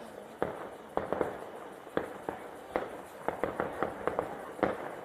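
Fireworks going off: a string of sharp bangs at uneven intervals, several a second at times, with crackling between them.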